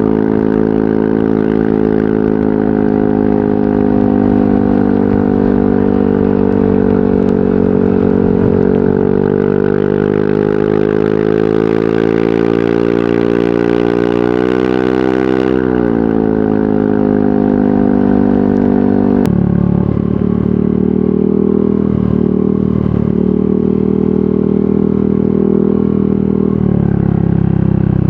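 Yamaha NMAX 155 scooter's single-cylinder engine running through an aftermarket VMAX Onyx muffler. Its pitch climbs slowly and then drops off about halfway through. A little later the sound changes suddenly to a lower, rougher note.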